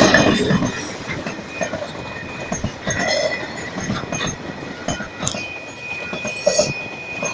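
Loaded log wagons of a freight train rolling past, their wheels clacking irregularly over the rail joints, while the diesel locomotives' louder rumble falls away in the first second. A thin, steady wheel squeal comes in about five seconds in.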